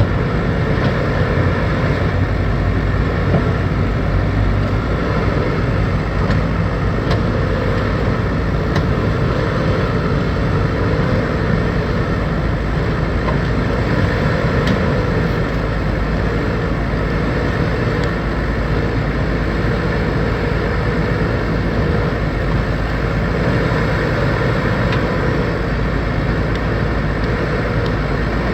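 Backhoe loader's diesel engine running steadily under work, with a faint tone that wavers slowly in pitch and a few light ticks.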